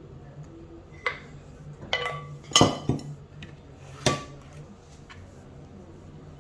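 Kitchenware clattering: about five sharp clinks and knocks of pans and utensils, the loudest about two and a half seconds in, over a steady low hum.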